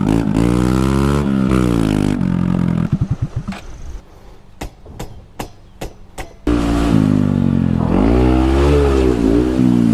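Dirt bike engine revving up and down with its exhaust pipe off while the bike is stuck. About four seconds in it drops away to a few sharp pops, then revs hard again near the end.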